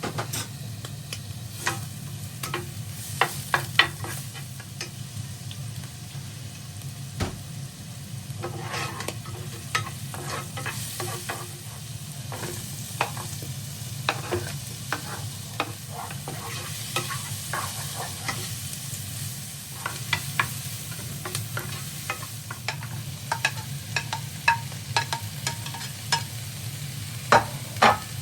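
A cooking utensil stirring in cookware, with irregular clinks and knocks against it, over a steady low hum and faint hiss.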